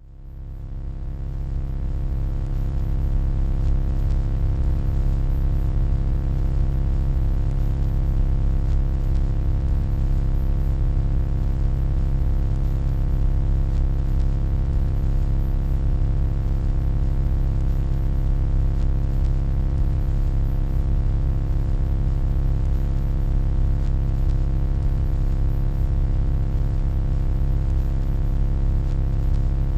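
Steady electronic hum: a deep, low drone with a stack of steady overtones above it, fading in over the first couple of seconds and then holding even.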